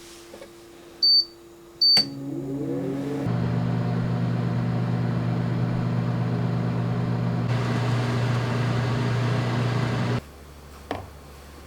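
Microwave oven: two short button beeps, then it starts up and runs with a steady electrical hum, louder from about three seconds in. The hum cuts off abruptly about ten seconds in, followed by a single click near the end.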